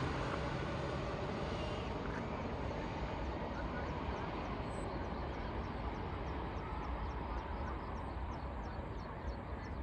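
Jet airliner's engine noise, a steady rush slowly fading away as the aircraft moves off after passing. From about three seconds in, a high rhythmic ticking or chirping repeats about three times a second.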